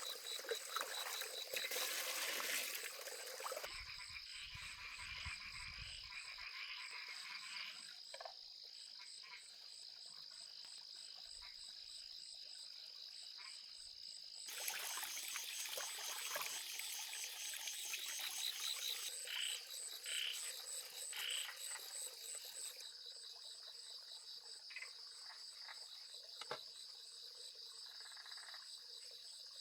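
Frogs calling over a steady chorus of trilling insects, with a few short croaks partway through. The background changes abruptly a few times.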